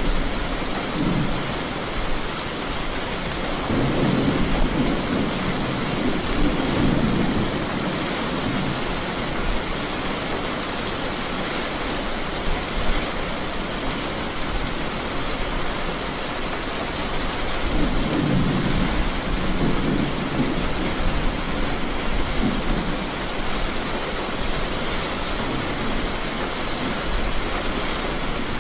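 Steady rain hiss of a thunderstorm, with low rolls of thunder swelling up about four seconds in and again around eighteen seconds in.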